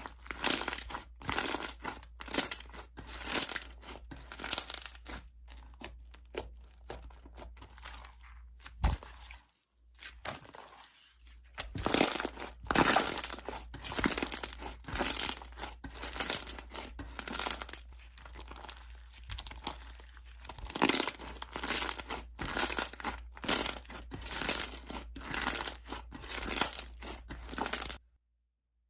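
Hand-played slime being squished, pressed and stretched, making dense, irregular sticky clicks, crackles and pops. There is a short lull partway through, and the sound cuts off near the end.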